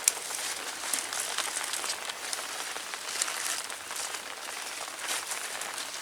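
Rain falling steadily, with many small drops ticking on an umbrella held close overhead.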